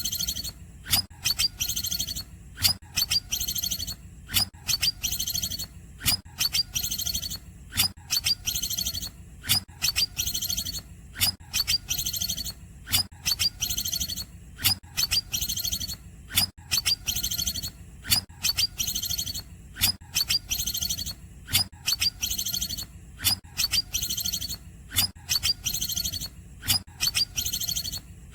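Green leafbird (cucak ijo) singing a long run of high, shrill, rapidly repeated chirps and twitters, with a sharp loud note about once a second, a song packed with mimicked phrases. A faint low hum runs underneath.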